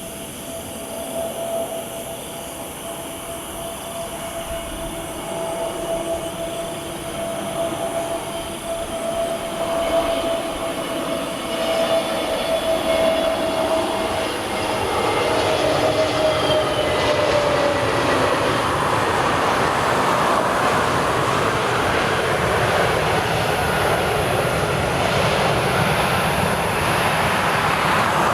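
Airbus A320neo with CFM LEAP-1A engines on landing approach. A steady engine whine slides down in pitch as the aircraft passes, about halfway in, while the rushing jet noise grows louder and then holds.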